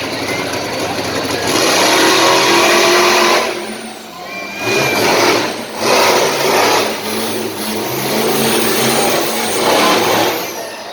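Monster truck engines racing under hard throttle, the revs surging and dropping repeatedly, with a brief lull about four seconds in before they rev up again.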